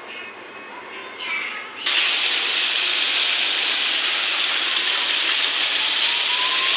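Water running in a steady rush, starting abruptly about two seconds in, with a faint rising tone near the end.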